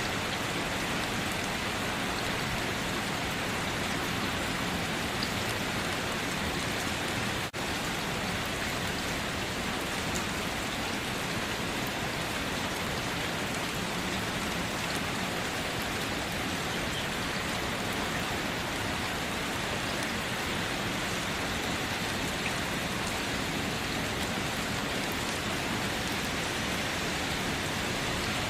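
Steady rain falling with an even, continuous hiss, broken only by a momentary drop in level about seven seconds in.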